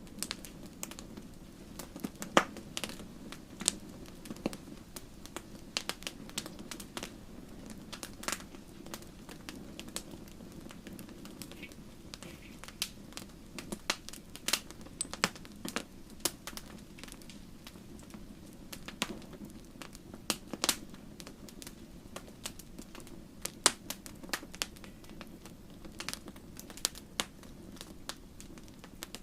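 Wood fire crackling: irregular sharp pops and snaps, a few louder than the rest, over a steady low hiss of burning.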